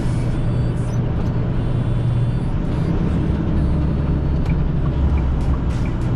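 A semi-truck's diesel engine and road noise heard from inside the cab while driving, a steady low drone. From about four and a half seconds in, a faint regular clicking starts, about one click every 0.7 s, like the truck's turn signal.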